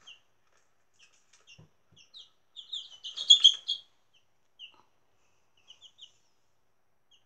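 Young chickens peeping: scattered short, high chirps, with a loud flurry of peeps about three seconds in.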